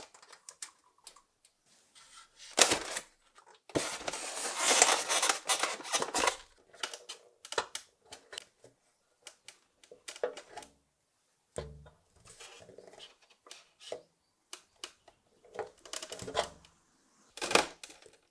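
Small clicks and knocks of hard parts being handled, with a few seconds of scraping or rubbing noise about four seconds in.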